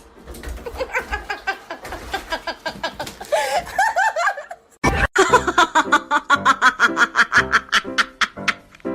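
Laughter over background music. After a sudden break about halfway, a fast, even run of short pulses follows.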